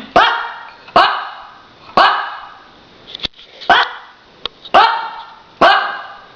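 Puppy barking, about one sharp bark a second, six barks in all, each with a short fading echo.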